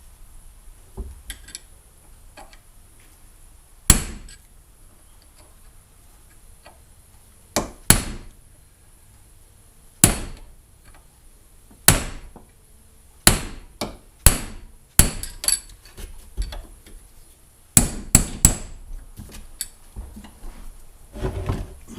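Hammer blows on trolling-motor parts during a rebuild: about a dozen sharp single strikes, irregularly spaced, with quick pairs and a triple of taps in the second half.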